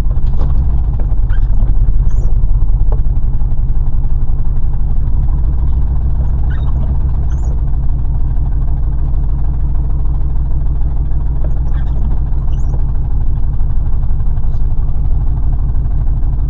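Car engine running steadily while driving: a continuous low drone that holds the same level throughout.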